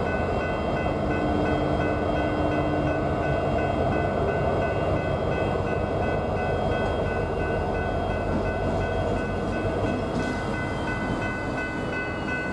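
BNSF freight train rolling by with a steady heavy rumble, overlaid by a continuous high-pitched ringing tone.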